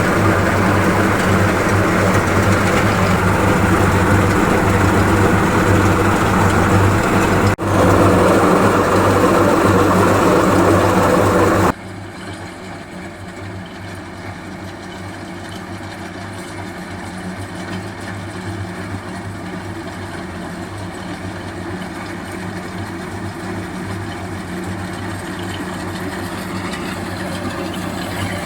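Swaraj 735 FE tractor's three-cylinder diesel engine running steadily, with a brief dip about eight seconds in; about twelve seconds in the sound drops suddenly to a quieter level and carries on running.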